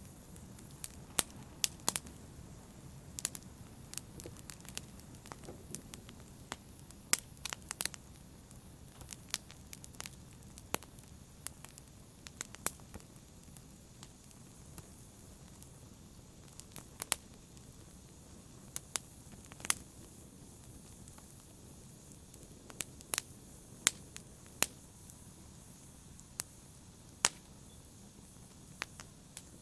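Wood fire burning in a fireplace: a steady low hiss with irregular sharp crackles and pops, a few of them much louder than the rest.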